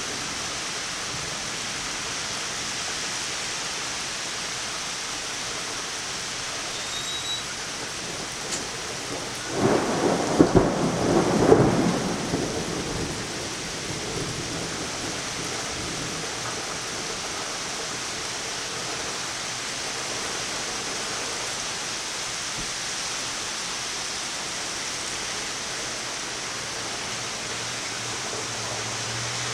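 Rain falling steadily, with one loud clap of thunder about ten seconds in that crackles for a few seconds before dying away.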